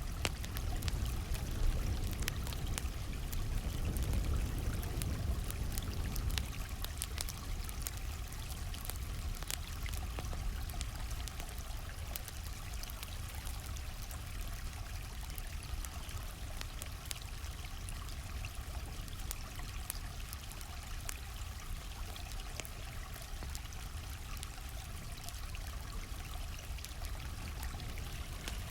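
A stream flowing with a steady rush of water, along with frequent sharp crackles and pops from a wood campfire. The deeper part of the rush is a little heavier in the first six seconds or so.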